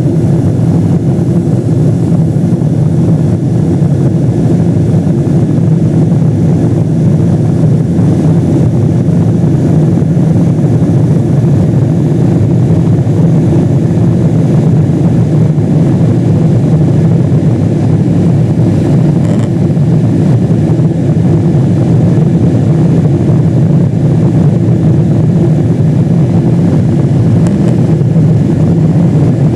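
Boeing 777-200 jet engines and airflow heard inside the cabin at takeoff power: a loud, steady low rumble.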